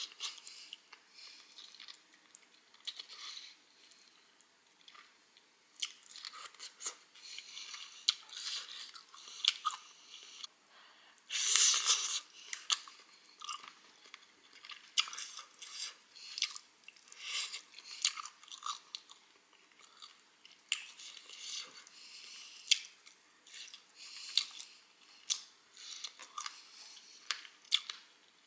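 Close-miked chewing and biting of chicken pieces: wet mouth clicks and crackles come irregularly, several a second. About twelve seconds in there is one louder noisy sound that lasts about a second.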